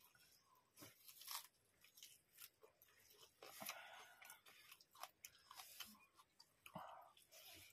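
Faint close-up chewing and mouth smacks of people eating rice and okra curry by hand, with scattered short soft clicks.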